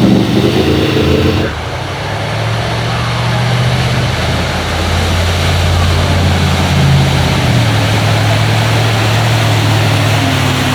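Car engine running at low revs, loud at first and easing off about a second and a half in, then a steady low drone with small rises and falls in pitch.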